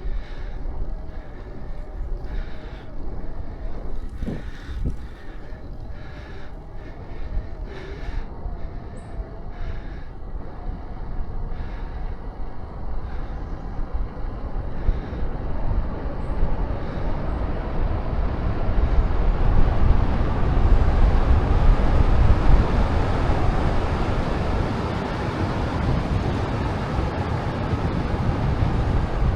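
Wind rushing over the microphone and tyre noise from a road bicycle on the move. The rumble and rush build and grow louder through the second half as the speed picks up.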